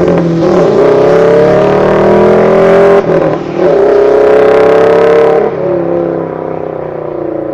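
Subaru BRZ's flat-four engine accelerating hard through the gears. The revs climb, drop at a shift right at the start and again about three seconds in, climb once more, then fall away as the throttle is lifted about five and a half seconds in.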